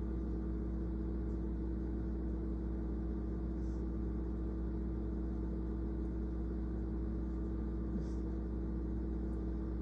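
Steady low mechanical hum with a constant tone running through it, unchanging, with a couple of faint ticks.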